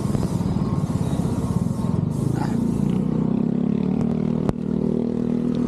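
A motor vehicle engine running with a steady low rumble, its pitched engine tone growing stronger about halfway through; a single sharp click comes near the end.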